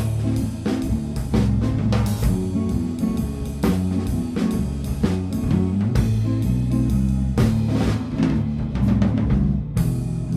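Instrumental band playing: a drum kit with bass drum and snare driving a steady beat under electric guitar and bass guitar, in a rough, unpolished mix of the drums and live scratch tracks.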